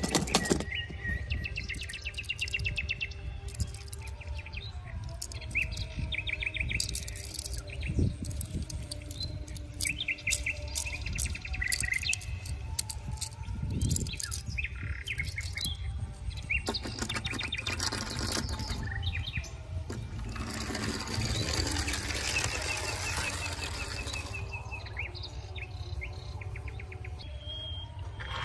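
Small birds chirping in short, quickly repeated trills, with a few seconds of hiss about two-thirds of the way through.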